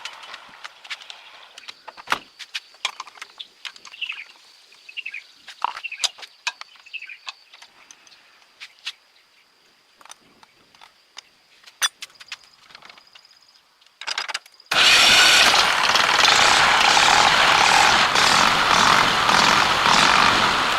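Small engine of a restored three-wheel truck starting: a brief burst, then it catches about three-quarters of the way through and runs loudly and steadily. Before that, scattered light clicks and knocks of handling.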